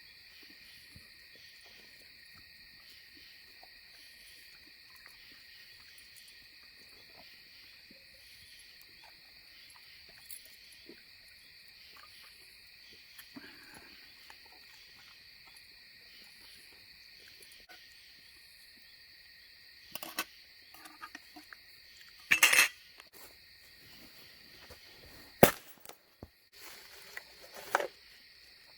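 Crickets chirping in a steady chorus. In the last third a few sharp clicks and knocks cut across it, the loudest two about two-thirds and seven-eighths of the way in.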